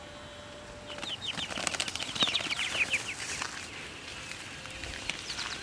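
Birds flapping their wings, with a quick run of short, high, falling chirps about a second in that fades after a couple of seconds.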